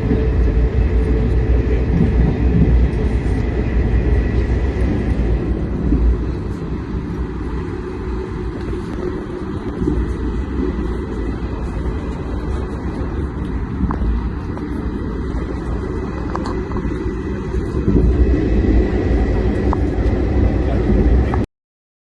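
Passenger train running along the track at speed, a steady heavy rumble that eases a little in the middle and grows louder again near the end, then cuts off suddenly.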